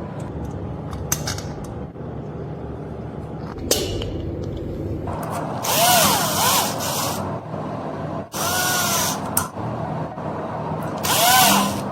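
A power tool run in three short bursts of about a second each, its pitch rising and falling in each, over a steady low engine running.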